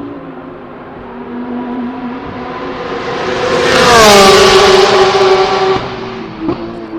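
GT race car passing at speed: the engine note builds as it approaches, is loudest about four seconds in, drops in pitch as it goes by, then fades away.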